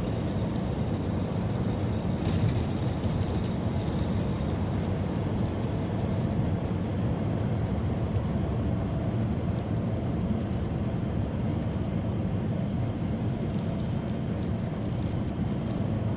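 Steady road and engine noise inside a semi-truck cab at highway cruising speed, mostly a low rumble, with a faint high whine that slowly drops in pitch over the first half.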